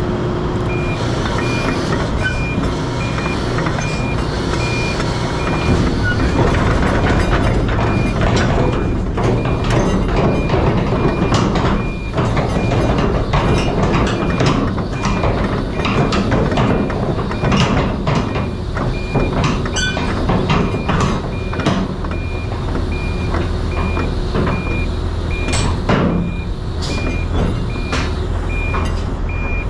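A vehicle's reversing alarm beeping about once a second, over a running truck engine with scattered clanks and knocks.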